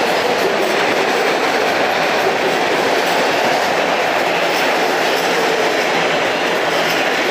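Toronto Rocket subway train moving through the station: a loud, steady noise of steel wheels running on the rails.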